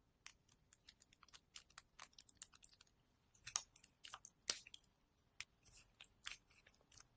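Close-miked chewing of marinated seafood: faint, irregular wet clicks and crunchy crackles, a few louder bites in the middle.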